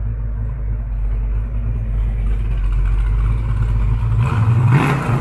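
Car engine idling with a steady low rumble. A little after four seconds in the sound changes, with a brief rise and fall in pitch.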